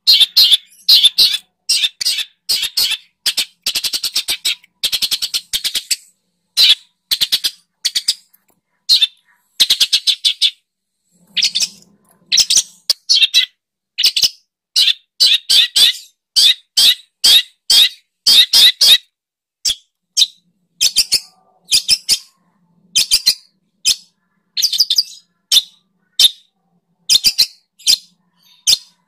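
Songbird song used as masteran (tutoring) material for long-tailed shrikes: loud, rapid chattering trains of short high notes, coming in bursts of about a second with brief pauses between them.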